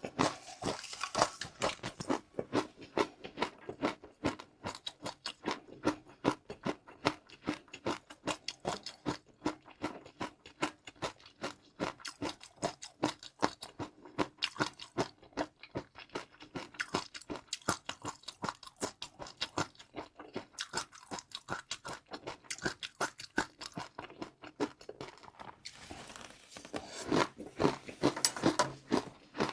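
Close-miked chewing of crunchy food: rapid, crisp crunches, several a second, with a louder run of crunching near the end.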